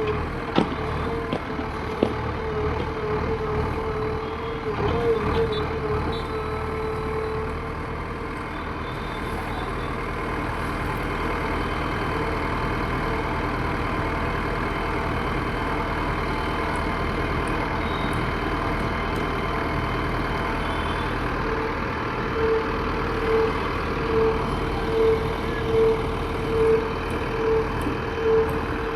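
JCB backhoe loader's diesel engine running steadily as the machine works. A steady tone sounds for the first several seconds, and from about twenty-two seconds in a reversing alarm beeps roughly once every second.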